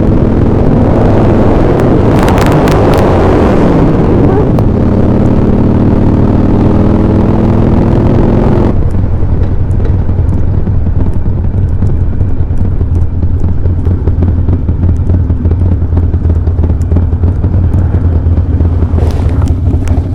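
Harley-Davidson Sportster motorcycle engines running at road speed, a loud steady drone. About nine seconds in, the sound suddenly turns duller as its brighter upper part drops away.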